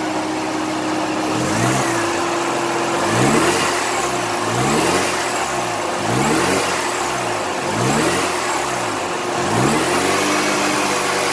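Mazda RX-7 FC's 13B two-rotor engine blipped about six times, each rev rising and falling back toward idle, over a steady whine. The engine is warm and its cooling system is being bled of air.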